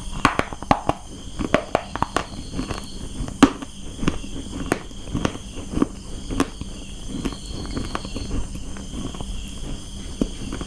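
Crunching of dry brown clay being bitten and chewed: irregular sharp cracks, thickest in the first few seconds and then thinning out. Crickets chirr steadily in the background.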